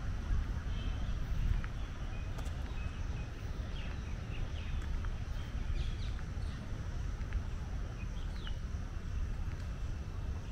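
Small birds chirping in short, scattered calls over a steady low rumble of park ambience.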